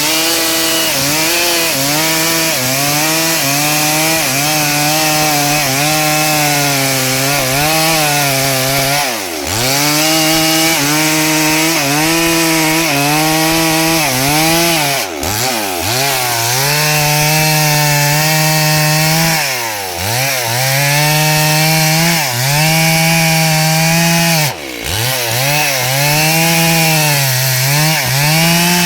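Two-stroke chainsaw running at high revs while cutting a log, its engine pitch wavering under the load. The pitch dips sharply and climbs back four times, about 9, 15, 20 and 25 seconds in.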